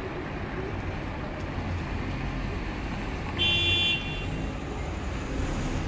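Steady low rumble, with one brief high-pitched tone lasting about half a second, about three and a half seconds in.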